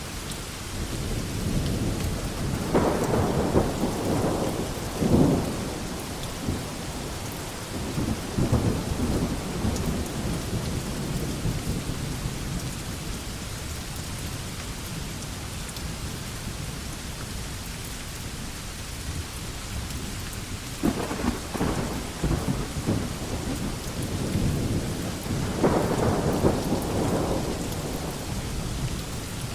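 Steady rain falling on a veranda, a constant even hiss. Low rumbling swells rise and fade four times, each lasting a few seconds.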